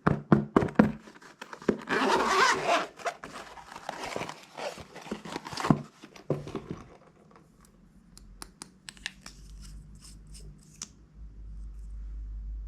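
Close-up handling of plastic packaging bags: a dense run of crinkling, tearing and snipping clicks, loudest about two seconds in, thinning to a few faint ticks after about seven seconds. A low hum rises near the end.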